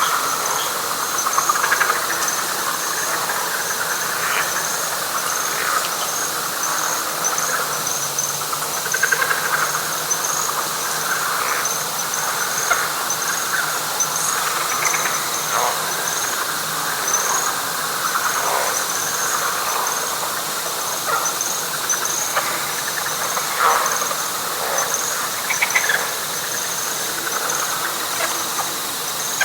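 Night chorus of frogs and insects in a wet flatwoods swamp: many overlapping frog calls form a dense, steady chorus, with a high, evenly pulsing insect trill above it.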